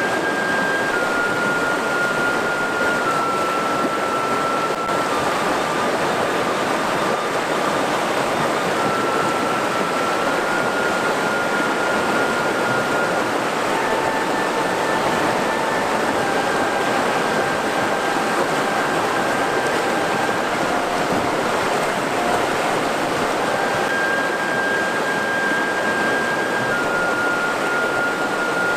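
Mountain river water rushing steadily over rocks. Faint steady tones sit above it, each held for a few seconds before stepping to a different pitch.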